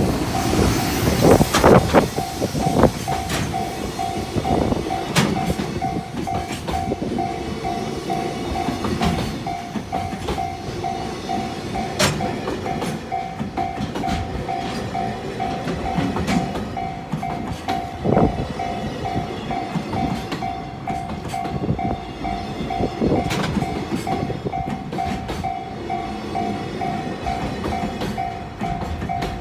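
Freight train of container wagons hauled by an EF210 electric locomotive rolling through a level crossing: wheels clacking irregularly over the rail joints while the crossing's warning bell rings steadily, about twice a second. Strong wind buffets the microphone in the first couple of seconds.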